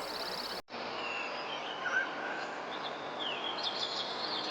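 Outdoor ambience of birds chirping and whistling briefly over a steady hiss, with a short break just after the start.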